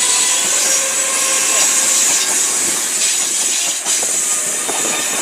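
Class 458 electric multiple unit moving at the platform, a steady hiss with short, faint wheel squeals.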